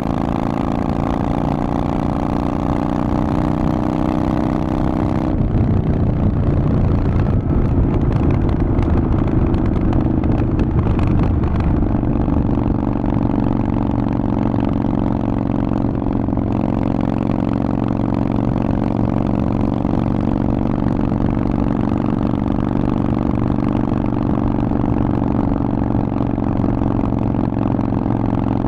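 Harley-Davidson Forty-Eight's 1200 cc V-twin running through a Vance & Hines exhaust under way. The even engine note turns rougher and a little louder about five seconds in for several seconds, then settles back into a steady note.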